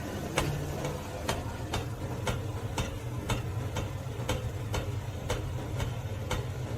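Regular mechanical ticking, about two clicks a second, over a steady low hum.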